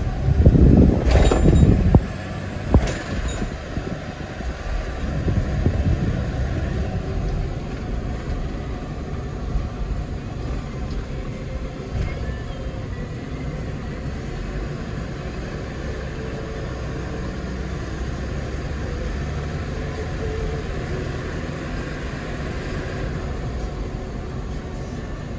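Hyundai Porter II truck driving, a steady low engine and road rumble. A louder rush of noise comes in the first two seconds, followed by a sharp knock just after.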